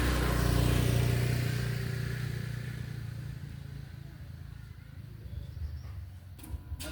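Low engine hum that fades away over about four seconds, with two sharp clicks near the end.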